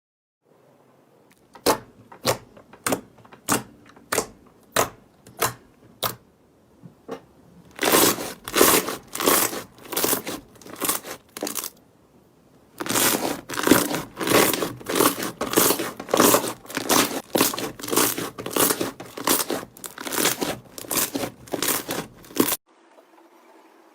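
Slime being pressed and squeezed by hand, making a rhythmic series of sharp crackling, sticky pops and squelches, about two a second. It starts with spaced pops, builds into a steady quick run, and stops abruptly near the end.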